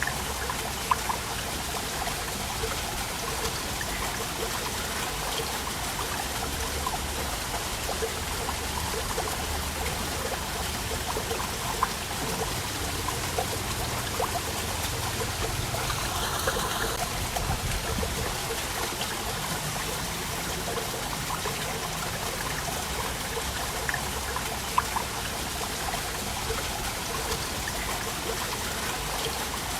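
Waterfall: water running and splashing steadily, with small plops and a few brief louder splashes standing out.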